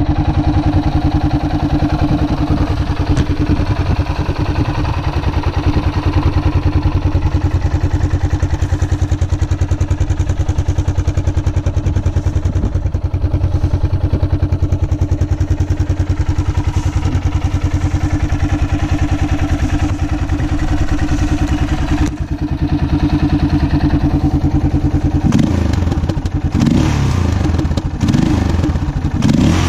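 Yamaha XT660R's single-cylinder four-stroke engine running through rebuilt stock mufflers, idling with a steady, even thump. In the last few seconds the throttle is blipped and the engine revs up and down.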